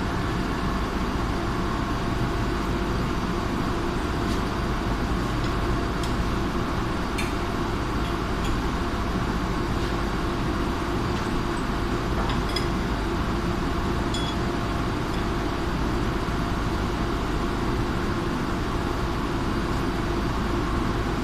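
Steady drone of running machinery with a few fixed steady tones, and a few faint light clicks or taps scattered through it.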